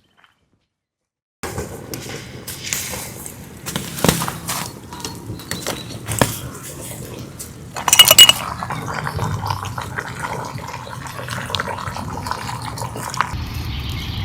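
Silence for about a second, then camp cookware and utensils clinking and scraping. A loud ringing metal clink comes about eight seconds in.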